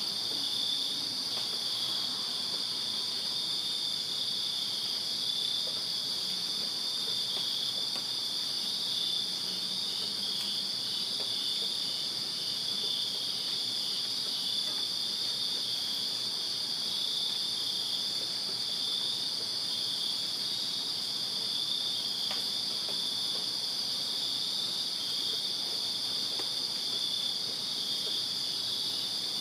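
Crickets chirping in a steady chorus: a continuous high trill with a quick, regular pulsing chirp just below it, at an even level throughout.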